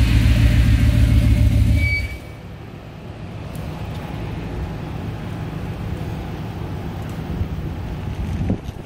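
Jeep Grand Cherokee SRT8's 6.1-litre Hemi V8 running hard on a chassis dyno, then about two seconds in it drops off with a brief high chirp. It settles to a much quieter, steady low rumble as the run ends.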